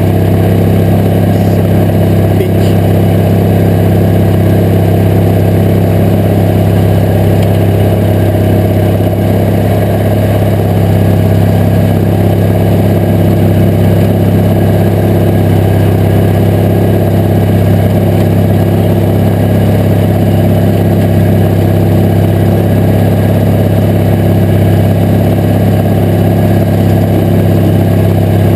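Briggs & Stratton V-twin engine of a Craftsman GT18 garden tractor running at a steady speed, loud and even with no change in pitch.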